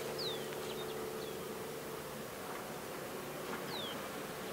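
Open-air ambience with a steady low buzzing hum that fades over the first couple of seconds. A bird gives two short, high, falling whistles, one near the start and one near the end, with a few faint chirps between.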